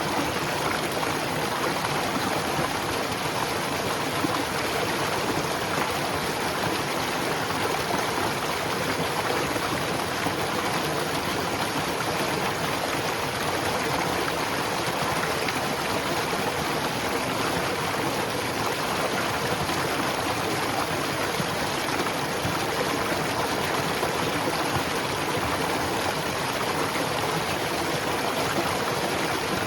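Steady white noise: an even, unchanging hiss spread across low and high pitches alike, with no tones or separate sounds in it.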